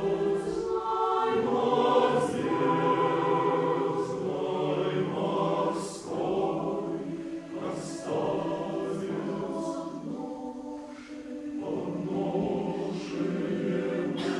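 Choir singing a cappella in sustained chords, with sibilant consonants cutting in across the phrases and a brief breath-like drop in the sound about eleven seconds in.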